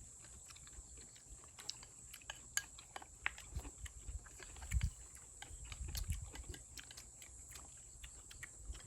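People eating stew and ramen noodles: chewing and slurping, with scattered sharp clicks of utensils.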